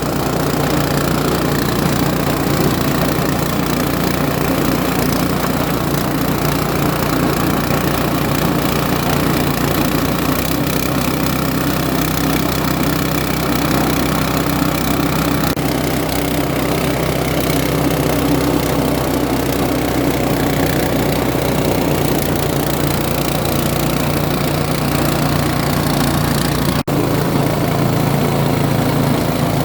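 Foam grinding machine running steadily, its motor holding an even pitch, with a momentary break near the end.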